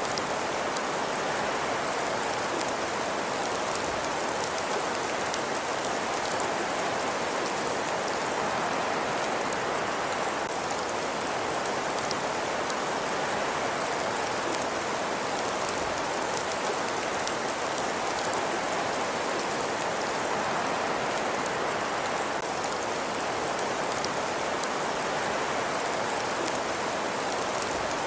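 Steady ambience track: an even, unbroken hiss with faint scattered ticks throughout.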